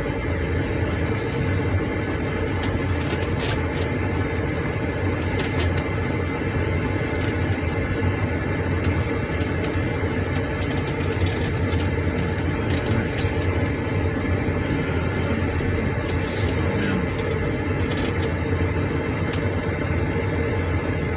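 Car engine and tyre noise heard from inside the cabin while driving slowly along a rough dirt track: a steady low hum with scattered short clicks and knocks.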